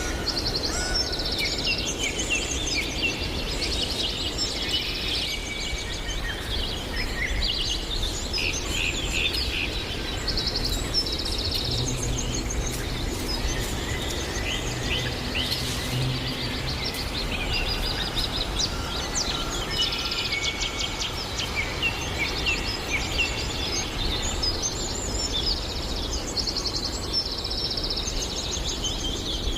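Several small birds singing and chirping continuously, with quick repeated trills and chirps, over a steady low background rumble.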